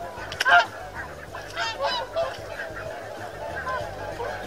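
A flock of geese honking, with many short, overlapping calls; the loudest comes about half a second in.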